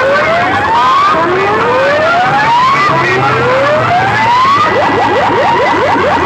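Electronic siren effect played loud through a sound system: three slow rising wails, then about three-quarters of the way through it switches to fast rising whoops, several a second.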